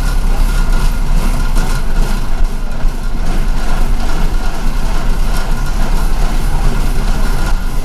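Steady deep rumble of a city bus's engine and drivetrain heard from inside the cabin, with continuous mechanical and road noise.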